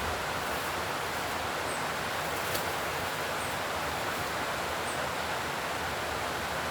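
Steady, even rushing noise with a few faint clicks and snaps.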